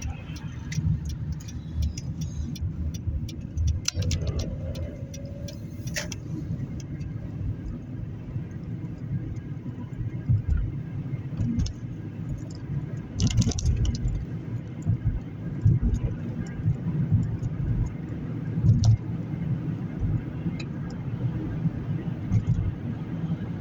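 Steady low road and engine rumble inside a moving car's cabin. A car's turn signal ticks evenly through the first six seconds while the car turns left, then stops, and a few bumps and knocks follow.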